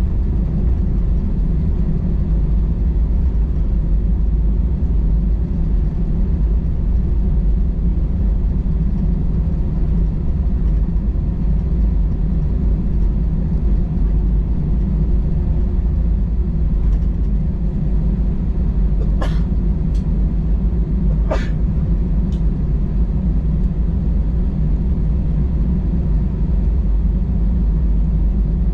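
Steady low cabin rumble inside an Airbus A320-216 with its engines running, heard from a window seat, with a few short clicks about two-thirds of the way through.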